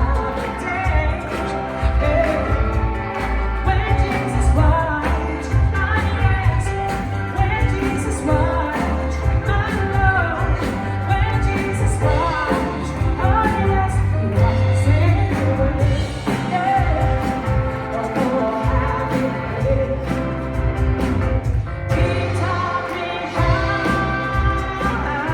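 A woman singing a soul song live over instrumental accompaniment, with a strong, continuous bass underneath.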